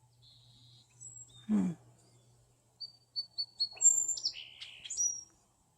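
Woodpeckers calling: a quick run of four short, high chirps, then louder, sharper calls mixed with chatter, the chatter typical of young woodpeckers begging. A short low thud comes about a second and a half in.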